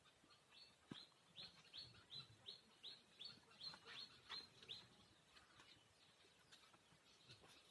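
A faint bird call: a quick, even series of about a dozen short, falling chirps, roughly three a second, that stops after about five seconds.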